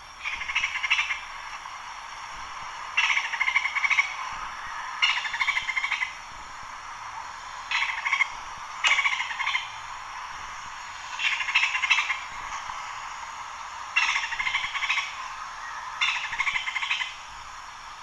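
Wild animal calls from a nature-sounds recording: a pulsed, trilled call of about a second, repeated about eight times, some in close pairs, over a steady background hiss.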